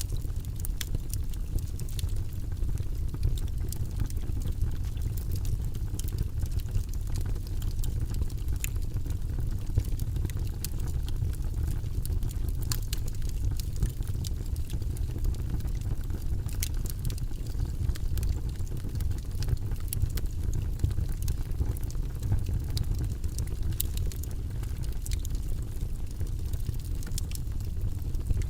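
Logs burning in a fireplace: a steady low rumble of the fire with scattered, irregular crackles and pops.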